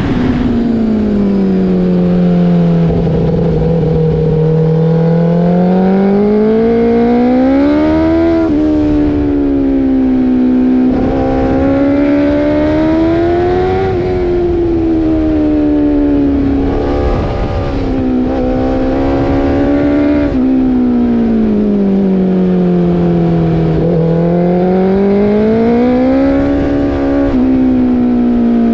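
Motorcycle engine at speed on a race track, its revs sweeping up and down every few seconds, with several sudden drops in pitch like gear changes, over a low rumble of wind.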